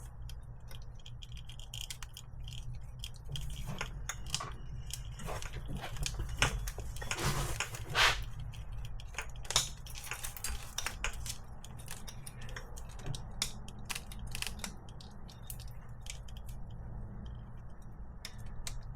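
Plastic wiring connectors and harness being handled and pushed at by hand in a car's engine bay: scattered small clicks and rattles, with a denser stretch of rustling about seven to eight seconds in, over a low steady hum.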